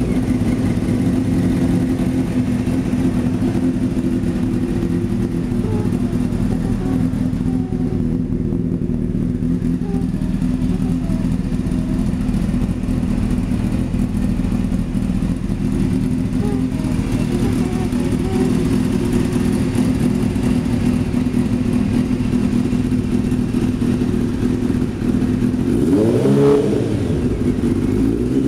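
Honda CBR600F3's inline-four engine idling steadily through R1 exhaust pipes with race baffles. Near the end it is given one quick rev that rises and falls back to idle.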